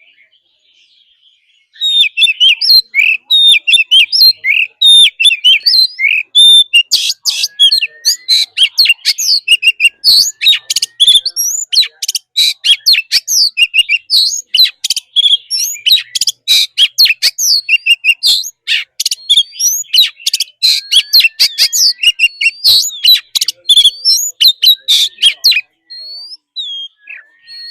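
Oriental magpie-robin singing a loud, fast, varied song of whistled notes, chips and sweeping slurs. It begins about two seconds in, grows very dense, breaks off abruptly near the end and gives way to a few scattered notes.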